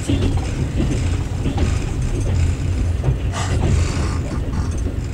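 Passenger train carriage under way, heard from inside: a steady low rumble of the wheels on the track with the carriage rattling and creaking, and a louder clatter about three and a half seconds in.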